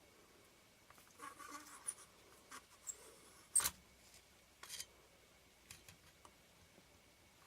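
Small clicks, taps and light scraping as lens parts and a lens tool are handled during disassembly of a camera lens, with the sharpest click about three and a half seconds in.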